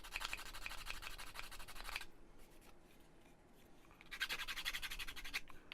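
Rapid back-and-forth scraping strokes of an abrasive against a laser-cut MDF terrain piece, cleaning up its edges. The strokes come in two bursts with a pause of about two seconds between them.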